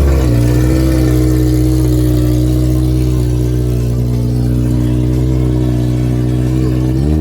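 Honda K-series four-cylinder engine, swapped into an EK Civic hatchback, running steadily on its first start-up, then rising in pitch as it is revved near the end.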